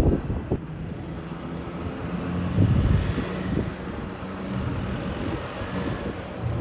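Street traffic: motor vehicle engines running past on a road, with a louder pass about two and a half seconds in.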